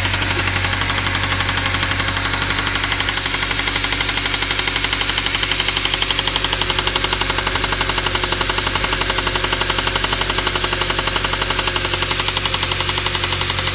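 ZMZ-405 inline-four petrol engine running steadily, with a rapid, even knocking from the engine. The knock is there despite a new Euro-3 timing drive and new INA hydraulic lifters.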